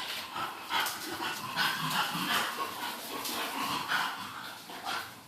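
Eight-week-old English bulldog puppies whimpering and yipping in many short, irregular cries.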